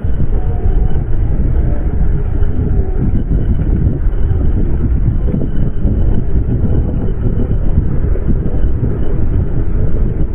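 Loud, steady low rumble of a vehicle on the move.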